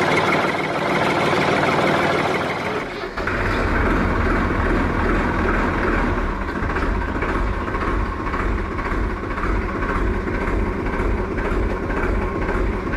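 Toy vehicle's motor running with a steady mechanical chugging, like an engine idling; a deeper rhythmic rumble comes in about three seconds in.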